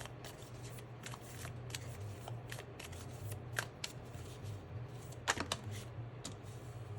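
Tarot cards being shuffled and handled: irregular papery flicks and snaps of the card stock, with a louder cluster of snaps a little past five seconds. A steady low hum runs underneath.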